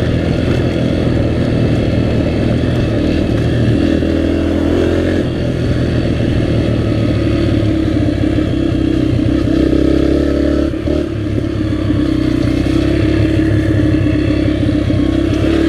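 Dirt bike engine running steadily under throttle while riding. Its pitch shifts about five seconds in and dips briefly around eleven seconds in as the throttle changes.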